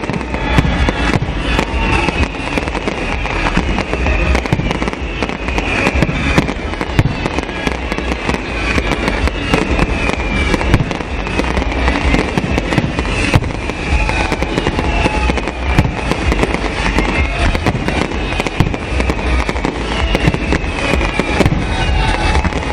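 Fireworks display: a dense, continuous run of bangs and crackling bursts, with a high falling tone repeating about once a second through it.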